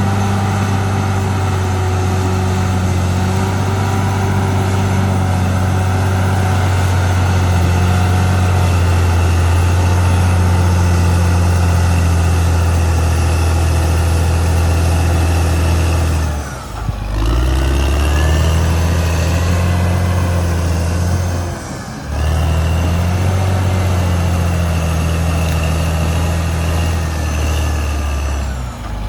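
Caterpillar D6R XL bulldozer's diesel engine running hard and steady, its pitch dropping briefly and climbing back up three times: about halfway through, again about five seconds later, and at the end.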